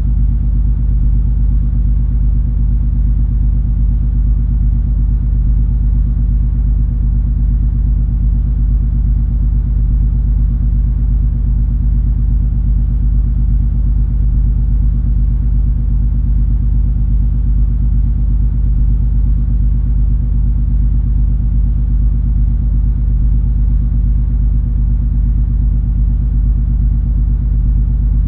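The MS Color Magic cruise ferry's engines and hull under way, heard on board as a steady, unchanging low rumble.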